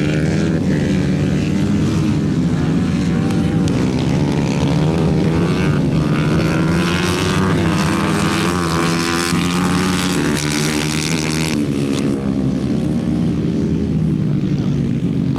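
125 cc engine running steadily at an even speed, with some wavering higher-pitched sound over it.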